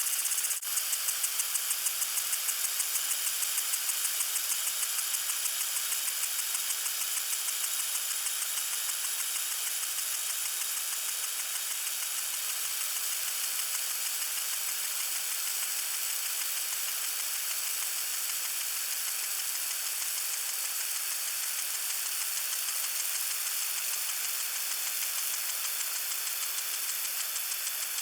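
Lawn sprinkler spraying water: a steady hiss with a regular pulsing tick of about three a second, plainest in the first few seconds, and a brief dip just under a second in.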